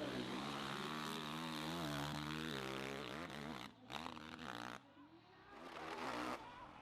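Motorcycle engine revving hard, its pitch rising and falling with the throttle during a hill-climb run. The sound drops out abruptly about four seconds in and again near five seconds, then returns before cutting off suddenly near the end.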